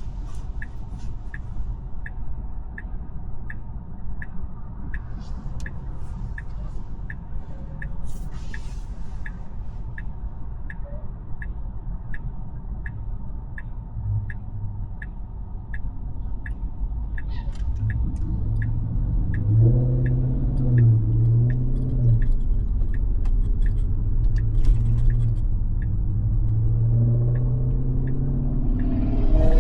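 Tesla's turn-signal indicator ticking about twice a second over steady road and tyre rumble in the cabin; the ticking stops a little past halfway. After that a low droning hum builds and the rumble grows louder.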